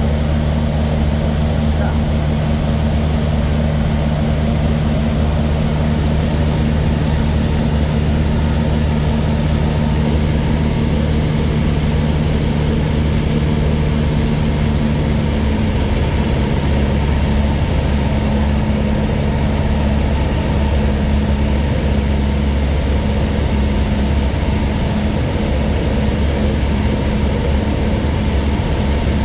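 Cessna 152's four-cylinder Lycoming piston engine and propeller running steadily, heard from inside the cabin. The engine note changes about halfway through.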